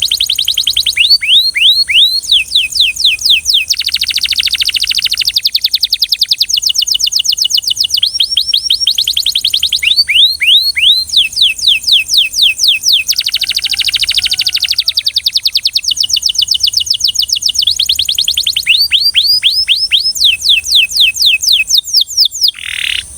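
Belgian canary singing a long, loud song of rapid trills: rolls of quick falling whistled notes, about ten a second, alternating with buzzy rattling passages. The song breaks off abruptly near the end.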